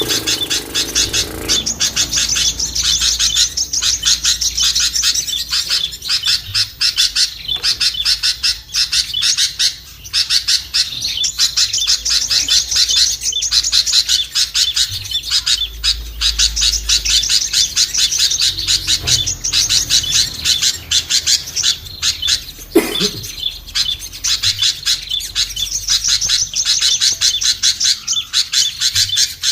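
Small-bird lure recording: many small songbirds chirping and chattering at once in a dense, rapid, unbroken stream of high calls, the kind of noisy flock chatter used to draw small birds down. One short knock sounds about three-quarters of the way through.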